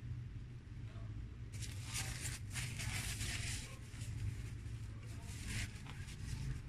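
Mouth eating sounds: a person chewing fried food close to the microphone, with a crackly, crunchy stretch about a second and a half in and a shorter one near five seconds, over a steady low hum.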